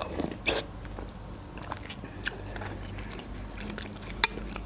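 Close-miked chewing of a mouthful of borscht, with a few sharp clicks from mouth and spoon; a metal spoon clinks against the ceramic bowl a little after four seconds in.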